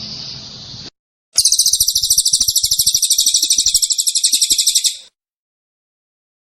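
Songbird recording: a fast, even trill of many rapidly repeated high notes lasting about four seconds. It starts abruptly after a short dead gap and cuts off abruptly, as in an edited birdsong tutoring track.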